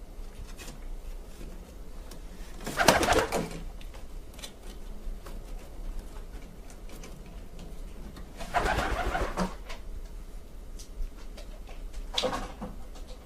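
Pigeons cooing, with three louder bouts: about three seconds in, around the middle, and near the end.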